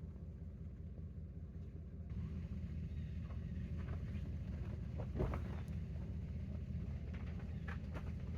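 A steady low rumble with scattered short crackles and knocks from about two seconds in, typical of handling camping gear outdoors.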